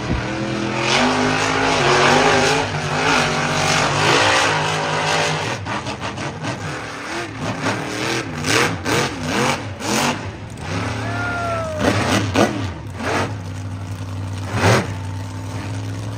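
Monster truck engine revving in repeated blips, rising and falling in pitch, over a steady low engine note with crowd noise. A few sharp bangs near the end.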